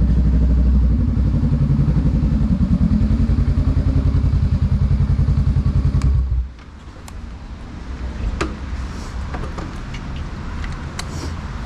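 Honda Rebel 500's parallel-twin engine idling with an even pulsing beat, then shut off suddenly about six seconds in. Afterwards a few scattered clicks and knocks over a quieter background.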